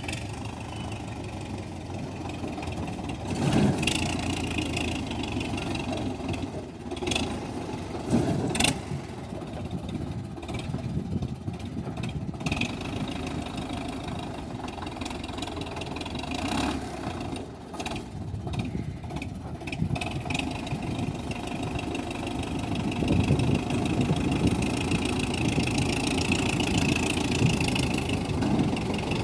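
Tractor engine running under load and revving up in surges, with a few sharp knocks among it.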